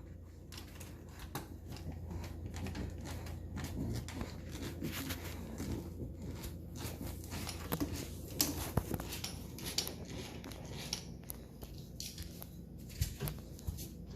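A pet's claws scratching and scraping irregularly at the floor and under a refrigerator, trying to reach a squeaker toy stuck beneath it, with a steady low hum underneath.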